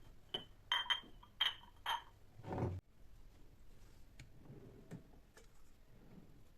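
A few light clinks and taps of hard household objects being handled, some with a brief glassy ring, in quick succession during the first two seconds. A short rustle follows and cuts off suddenly, then only faint occasional ticks.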